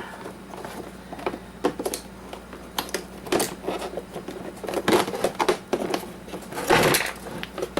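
Coffee maker being taken apart by hand: scattered clicks and knocks of its parts as a small internal pipe is worked loose, with a louder scraping rustle about seven seconds in.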